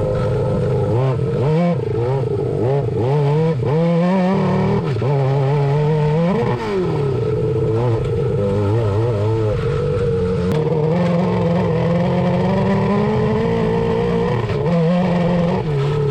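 Suzuki GSX600 inline-four motorcycle engine in a swapped Honda Odyssey buggy, running under load as it is driven, its pitch rising and falling over and over as the throttle is worked, then holding steadier for the last several seconds.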